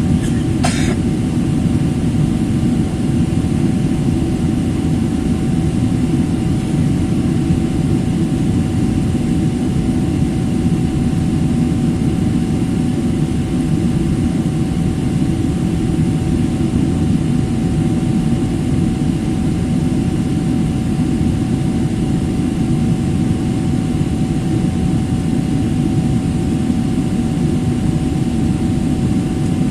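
Airliner cabin noise: a steady, unchanging low rumble of jet engines and airflow, with a faint steady hum above it.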